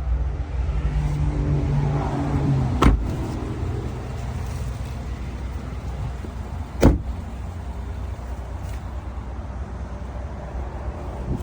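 Pickup truck engine running, with a brief rise in revs early on, and two sharp thumps about four seconds apart.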